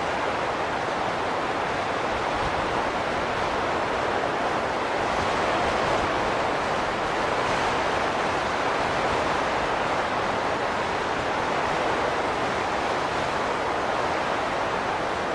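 Steady wind noise, a dense rushing that swells and eases slowly.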